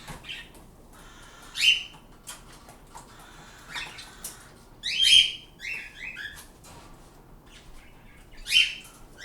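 Caged pet birds calling: short, sharp chirps that drop in pitch, coming in bursts, with the loudest about a second and a half in, a quick run of them around five seconds in, and another near the end.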